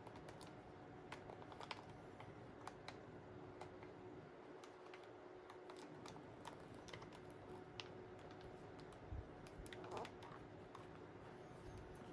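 Faint, irregular small clicks and taps, like handling of a small plastic device, over a steady low hum with a faint tone in it.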